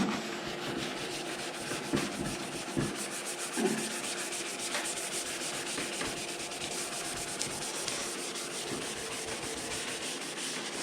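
Abrasive scuffing sponge rubbed rapidly back and forth over a painted scooter side panel, a continuous scratchy hiss, matting off the shiny clear coat so the next coat of clear will stick. A few light knocks in the first four seconds.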